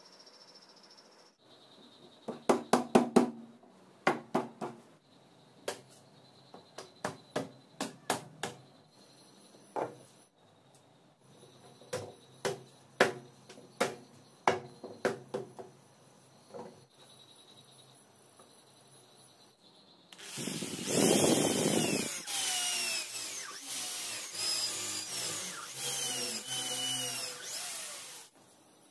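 Workshop sounds: several bursts of quick, sharp taps, then a handheld power drill runs for about eight seconds, its pitch wavering as it works.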